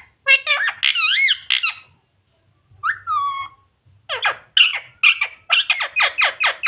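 Pet Indian ringneck parrot squawking: a few shrill calls, one call that glides down in the middle, then a quick run of short falling squawks, about four a second.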